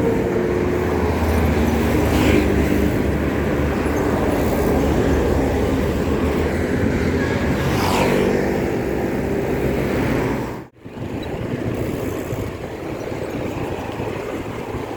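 Road traffic running alongside a bicycle: a steady low rumble of motor vehicle engines, with vehicles passing about two seconds in and again near eight seconds. The sound cuts out for a moment about eleven seconds in, then the traffic carries on.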